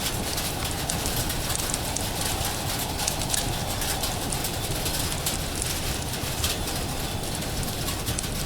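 Steady rain with a wood fire crackling: irregular sharp snaps and pops over a constant hiss of rainfall.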